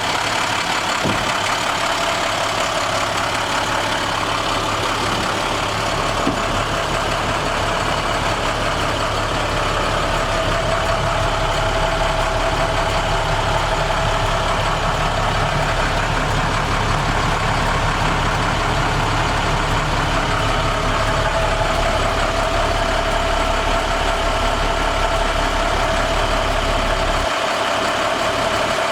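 International MaxxForce DT inline-six diesel engine of a water truck idling steadily, with a faint steady whine that grows a little stronger partway through.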